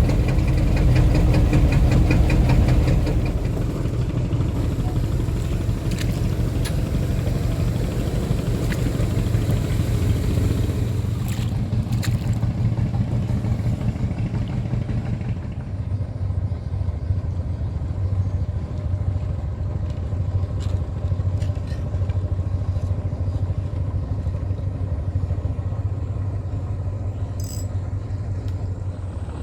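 Small boat engine running steadily, louder for the first three seconds, then settling to a lower, even running.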